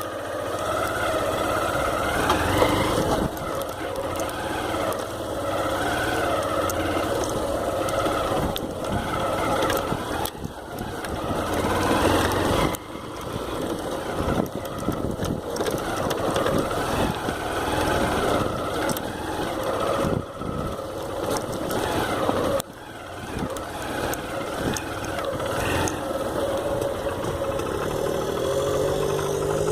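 Motorcycle engine running under way on rough ground, its pitch rising and falling with the throttle, with wind noise and frequent knocks and jolts. The level drops suddenly a few times.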